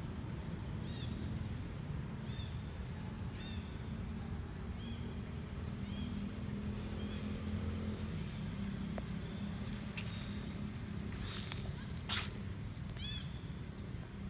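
Short, high-pitched chirping animal calls repeated every second or so, with a pause partway through, over a steady low rumble. A few sharp clicks come near the end.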